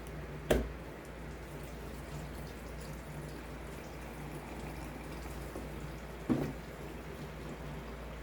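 Gasoline pouring from a gallon can into a generator's fuel tank, a steady trickle, with two short knocks about half a second in and about six seconds in.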